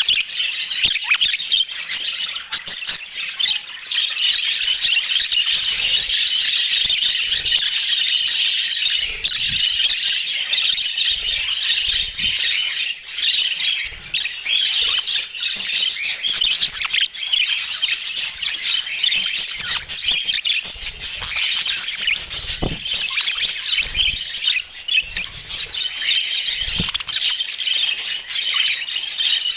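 A group of budgerigars chattering and warbling without pause, a dense mix of squawks and chirps, with a few faint knocks.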